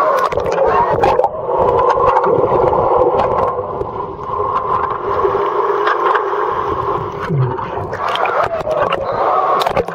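Muffled rushing and churning water, heard with the camera in or under the water, with a few scattered clicks.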